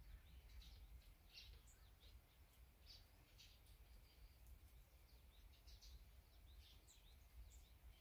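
Small birds chirping faintly: many short, scattered chirps over a low steady rumble.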